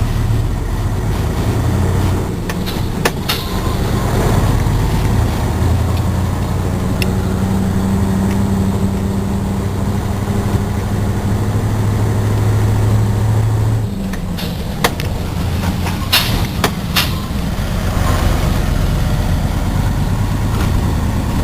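Cement tanker truck's diesel engine running steadily while driving, heard from inside the cab, with a low hum that drops in level about two-thirds of the way through. A few sharp clicks or rattles come near the start and again just after the drop.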